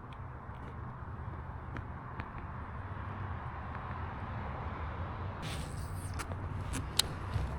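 Steady low rumble of wind on the microphone. Near the end come a burst of hiss and a few sharp clicks, the loudest about seven seconds in.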